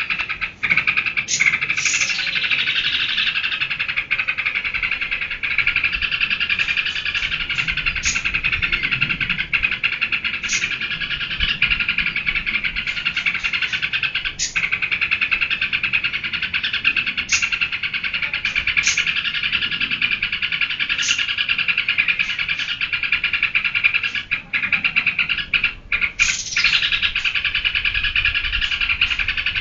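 Yellow-vented bulbul (trucukan) singing in a rapid, unbroken chatter, with short sharp high notes breaking in every second or two.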